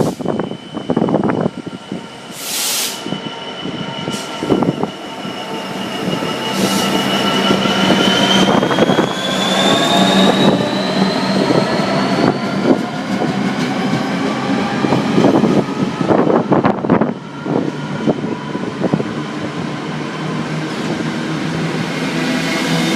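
A train moving through the station, its wheels clattering over the rail joints, with a high whine that rises slowly in pitch through the middle.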